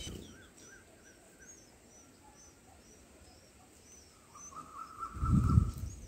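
Small birds chirping faintly: thin high chirps repeating about twice a second, with a short buzzy trill near the end. A loud low rumbling burst comes in near the end, over the trill.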